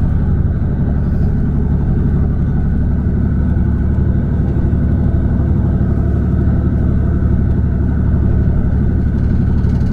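Steady, even rumble of a vehicle's engine running with no change in speed.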